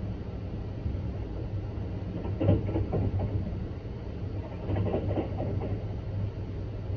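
Sunrise Seto sleeper train, a 285 series electric train, running at speed, heard from inside the car: a steady low rumble, with two short runs of clickety-clack about two and a half and five seconds in as the wheels pass over rail joints.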